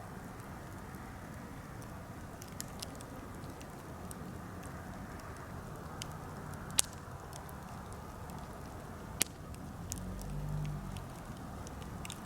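Birch-wood campfire crackling steadily with scattered sharp snaps, two louder pops about seven and nine seconds in, and a brief low rumble near the end.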